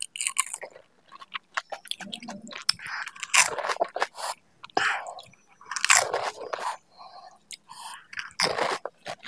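Close-miked crunching and chewing of pani puri: crisp, hollow fried puri shells filled with spicy flavoured water, bitten whole and crunched in irregular bursts.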